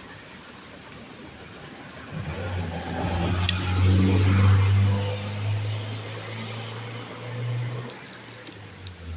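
A motor vehicle's engine going by: its low hum swells about two seconds in, is loudest near the middle, and then fades away.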